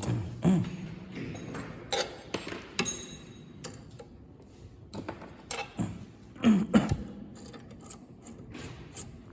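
Irregular clicks, taps and knocks, with two louder low thuds about half a second and six and a half seconds in.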